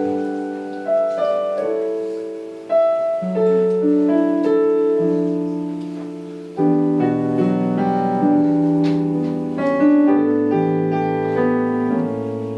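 Slow piano introduction to a ballad: chords struck and left to ring, with deeper bass notes joining about halfway through.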